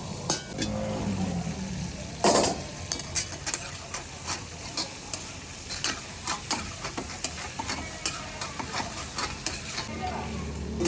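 Chicken karahi frying and sizzling in the wok while a metal ladle stirs and scrapes it, with frequent short clicks and one louder scrape about two seconds in.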